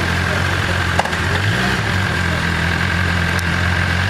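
A vehicle engine running steadily at low revs, its pitch wavering up and down a little from about halfway through, with a single sharp click about a second in.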